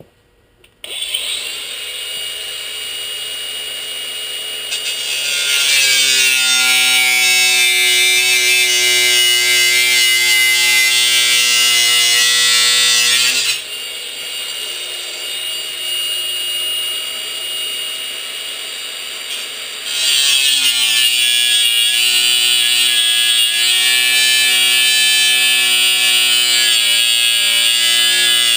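Electric power tool, such as an angle grinder, cutting or grinding steel: it starts about a second in, runs lighter for a few seconds, then bears in loudly, eases off briefly in the middle, and bears in again.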